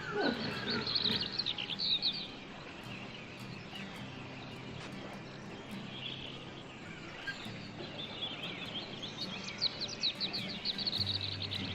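Small birds chirping in rapid high-pitched series, once in the first two seconds and again over the last few seconds, with a steady outdoor background hiss between.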